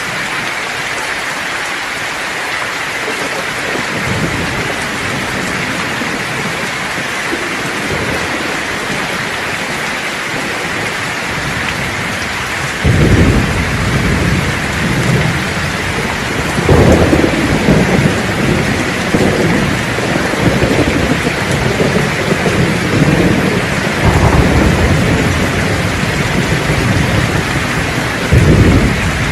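Steady heavy rain hissing, with rolls of thunder rumbling in several times from about halfway through, the loudest peals coming suddenly in the second half.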